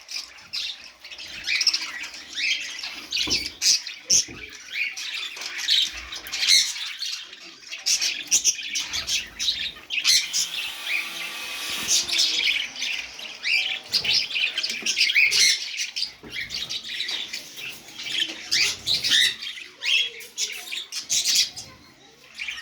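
A flock of budgerigars chattering and squawking without pause, many short chirps overlapping, with a few scattered knocks.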